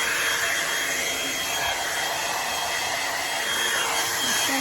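Drybar Double Shot blow-dryer brush running steadily: a continuous rush of air with a thin, steady high whine.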